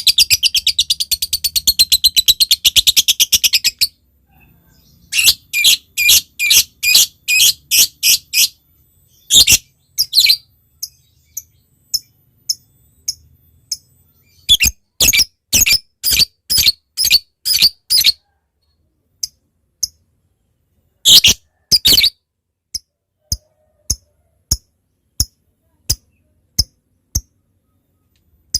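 Lovebird calling. It opens with about four seconds of rapid, unbroken chatter (the long 'ngekek'). After a short pause come runs of sharp, high chirps at about three a second, then single sharp ticks spaced out (the 'ngetik').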